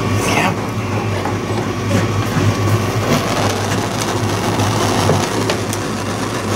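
Electric heat gun running steadily, its fan motor humming and blowing, while it shrinks heat-shrink tubing over a soldered wire joint. A few light clicks sound over it.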